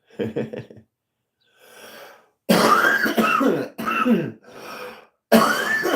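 A man coughing hard in a fit: a breath, then four loud, rough coughing bursts starting about two and a half seconds in, the last one running on past the end.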